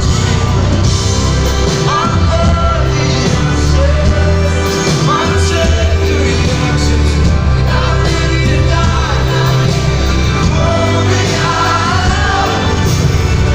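Live pop-rock band music with a singing voice over a heavy bass, loud and steady throughout.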